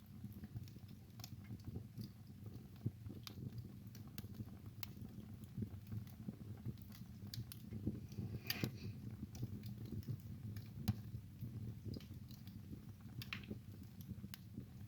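Wood fire burning in a fireplace: a steady low rumble of flames with frequent irregular crackles and pops, a sharper snap about two seconds in and a brief hissing pop about eight and a half seconds in.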